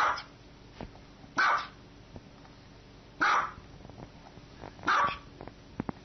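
Small white dog barking: four short, high barks, one about every one and a half to two seconds.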